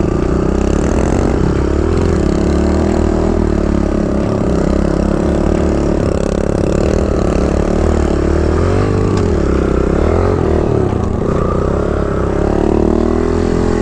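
Kawasaki KLX 110 dirt bike's small single-cylinder four-stroke engine running close by, its revs rising and falling unevenly.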